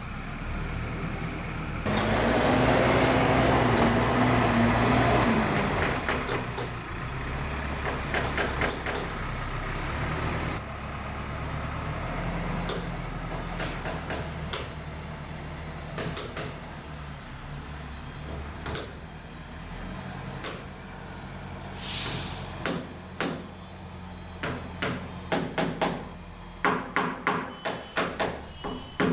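ACE AX124 backhoe loader's diesel engine running, revving up under load for a few seconds near the start. Repeated sharp metal clanks and knocks come throughout, with a quick run of them near the end.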